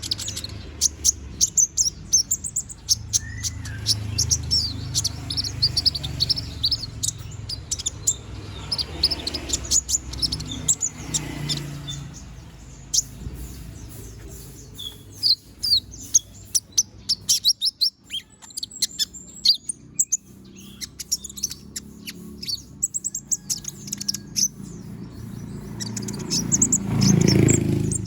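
A konin sunbird (kolibri ninja) singing non-stop in rapid runs of high, thin chirps and twitters, with a short pause in the middle. A low rumble swells briefly near the end.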